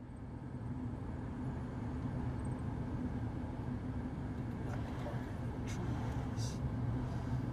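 Steady low mechanical rumble with a hum, like an engine running, and a few faint clicks about two-thirds of the way through.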